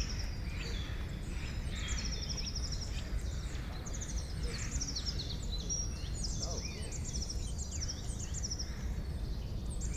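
Forest ambience of several songbirds singing, overlapping rapid trills and short chirps, over a steady low rumble.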